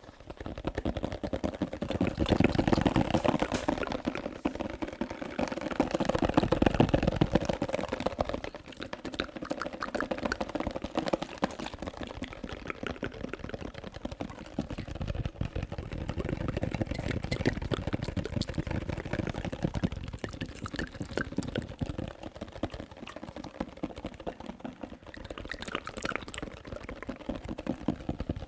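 Close-miked ASMR tapping and wet mouth sounds: a dense run of rapid clicks, taps and smacks, louder for the first eight seconds or so.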